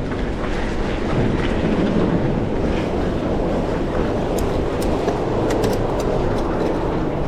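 Cradiac XC 900 mountain bike riding over a rough gravel track: a steady rumble and rattle from the tyres and frame, with wind on the microphone and a few sharp clicks about halfway through.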